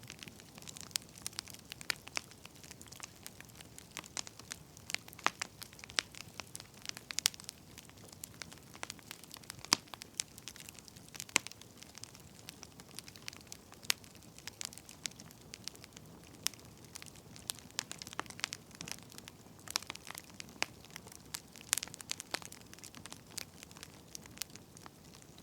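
Firewood burning with irregular sharp crackles and pops over a soft, steady hiss.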